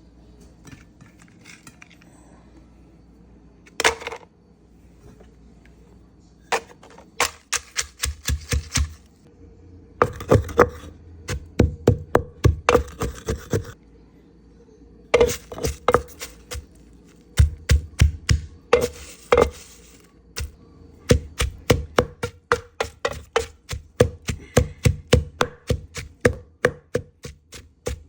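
Food being chopped with a knife on a board, in runs of quick strokes about three a second with short pauses between runs.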